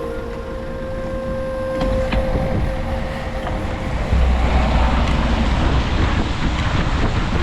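City traffic and road hiss heard from a bicycle, with a low rumble of wind on the microphone that grows louder about four seconds in. A held musical note ends about two seconds in.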